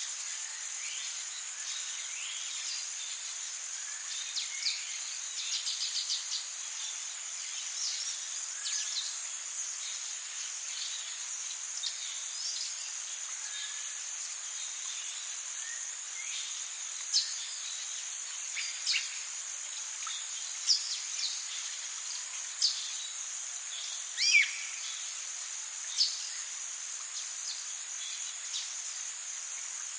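Tropical rainforest ambience: a steady, high insect drone over an even hiss, with birds calling in short, sharp, down-slurred notes. A quick trill comes about five seconds in, and louder single calls come every second or two in the second half.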